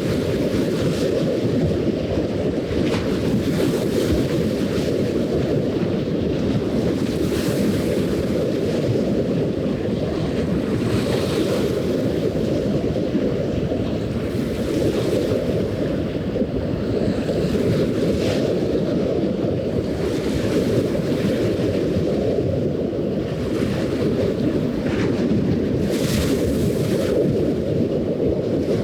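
Steady wind rumbling on the microphone, an even low noise with no engine tone, with faint splashes of small waves above it.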